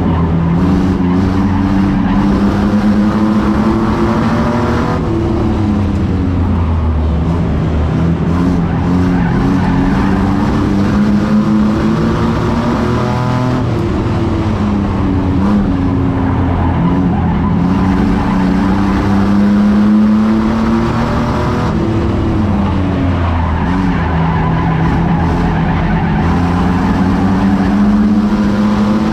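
Race truck engine running hard, its pitch falling and climbing back up again and again as it is driven around the track.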